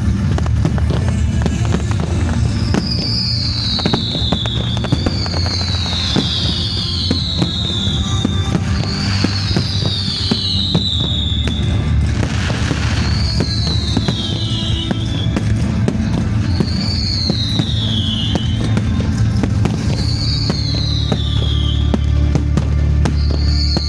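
Fireworks crackling and banging over loud music with a steady bass, with a high falling whistle repeating every second or two.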